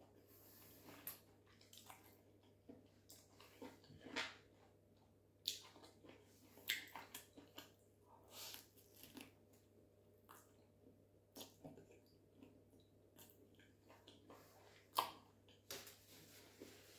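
Close-miked eating sounds: a person biting and chewing saucy chicken in owo soup, with irregular wet mouth smacks and clicks, one sharper smack near the end.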